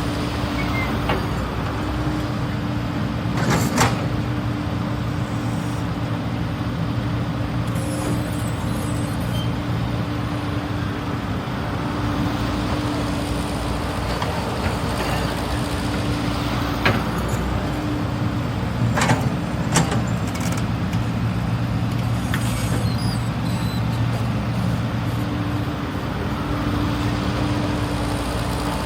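CAT 320 GC hydraulic excavator's diesel engine running steadily, a constant hum, with a few sharp knocks scattered through it.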